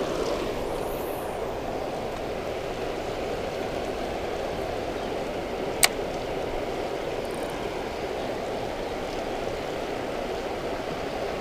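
Water pouring over a spillway: a steady, even rush with no pauses. A single sharp click sounds about six seconds in.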